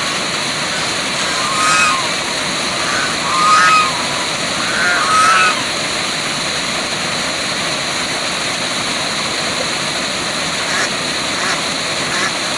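Waterfall rushing steadily, with three short pitched animal calls about two seconds apart in the first half and a thin steady high tone throughout.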